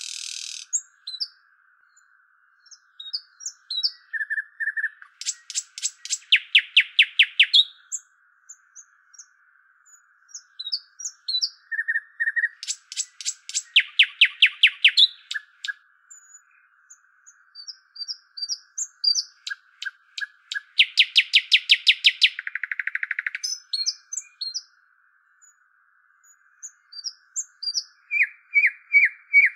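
A songbird singing: bursts of rapid trills roughly every seven seconds, with short high chirps between them.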